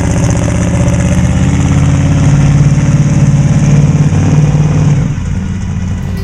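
Built 327 small-block V8 of a 1950 Chevy street rod running with a steady, pulsing exhaust note, easing off and fading about five seconds in.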